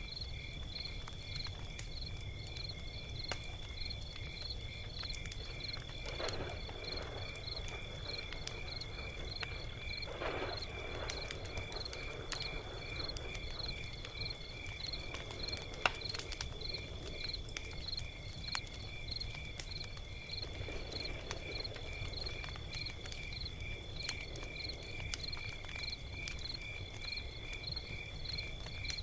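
Log fire crackling, with scattered sharp pops and one louder pop about halfway through, over a low rumble. Crickets chirp steadily in a regular rhythm behind it.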